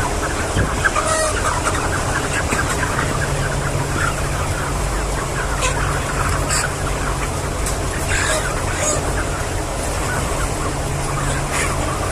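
A flock of chickens calling together, a dense chatter of many short clucks and peeps, over a steady low hum.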